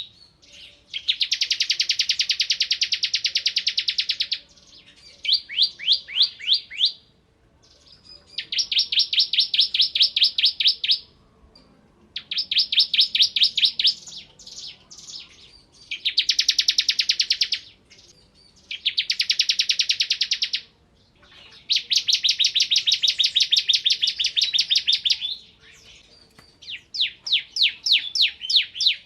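Bar-winged prinia (ciblek kristal) singing rapid, high, rattling trills of fast repeated notes, about eight bursts of one to three seconds with short pauses between them.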